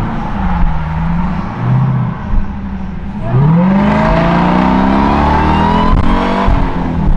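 Supercharged 6.2-litre Hemi V8 of a 2023 Dodge Durango SRT Hellcat with its mufflers cut off, running at low revs and then, about three seconds in, accelerating hard, its exhaust note climbing steadily for a few seconds with a higher whine rising above it before easing off near the end.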